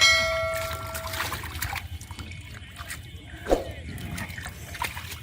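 Muddy water splashing, trickling and dripping as hands work in shallow river water, with scattered small clicks. Right at the start a loud bell-like ding rings out and fades away over about a second and a half.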